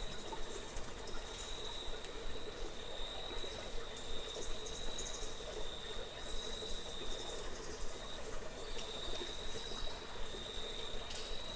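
An insect, cricket-like, trilling steadily on one high pitch, with a short pause about eight seconds in, over a steady rush of flowing water.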